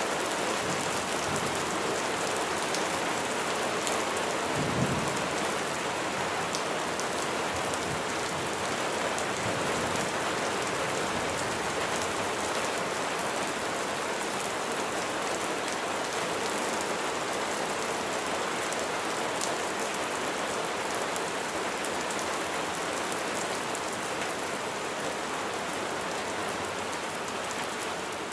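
Steady rain falling, an even dense patter with no let-up. About five seconds in there is a single short low thump.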